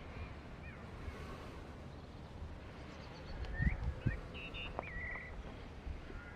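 Small birds chirping, with a short warbling trill about five seconds in, over a low outdoor rumble. A couple of soft knocks come about three and a half and four seconds in.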